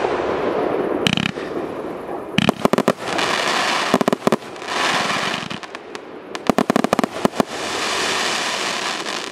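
A TKB880 'Gargara' fireworks cake, a 293-shot battery of 1-inch and 0.8-inch tubes, firing. There are four clusters of rapid sharp bangs, and between them a dense crackling hiss from the bursting stars.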